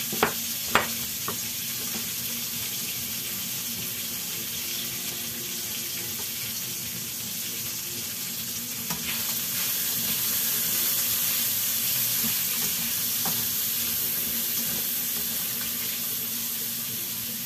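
Meat and garlic frying in a non-stick wok, a steady sizzle that gets a little louder about halfway through. There are two sharp clacks near the start, and a spatula stirs the pan near the end.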